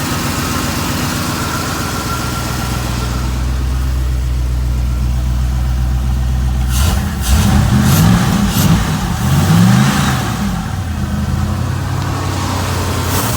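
1998 Cobalt 220 boat engine running at a steady idle, then revved up and down several times from about halfway through.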